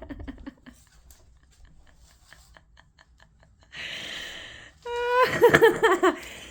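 A house cat hisses once, briefly, about four seconds in, after a few faint light taps. Right after the hiss comes a high, drawn-out vocal cry lasting over a second, the loudest sound here.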